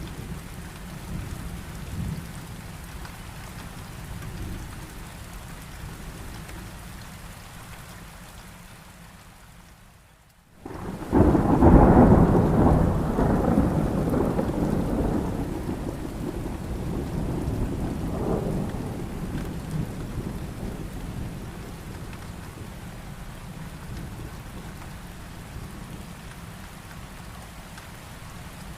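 Thunderstorm: heavy rain falling steadily with low thunder rumbling. About ten seconds in the sound briefly drops away, then a loud thunderclap breaks and rolls on for several seconds, swelling once more before it fades back to the rain.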